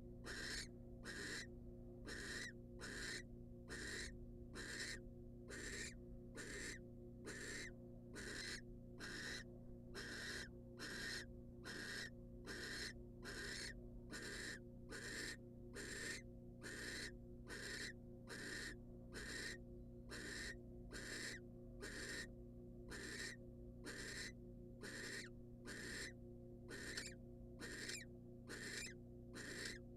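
Barn owl food-begging calls: a long unbroken series of short rasping hisses, about one and a half a second, the snoring call used to beg for food. A steady low hum runs underneath.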